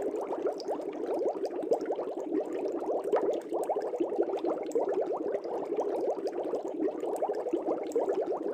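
Aquarium air bubbles rising through fish tank water, a continuous dense bubbling with many small pops.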